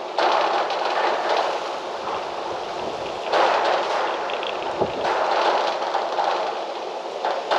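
Gusty wind rushing, swelling in strong surges just after the start, again a little past three seconds and about five seconds in, with a brief low buffet near the five-second surge.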